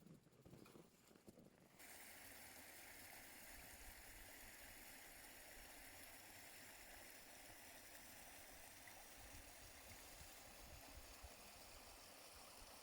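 Faint, steady rush of a mountain stream's flowing water, starting abruptly about two seconds in; before it, a few faint crunching steps.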